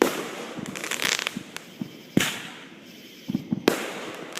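Fireworks going off: sharp bangs at the start, about two seconds in, and a cluster near the end, with crackling between the bursts.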